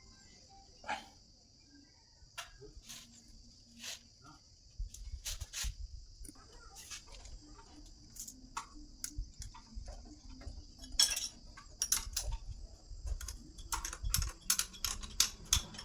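Scattered light clicks and taps of small metal tools and parts being handled, sparse at first and coming thick and fast in the last few seconds, over a steady high-pitched hiss.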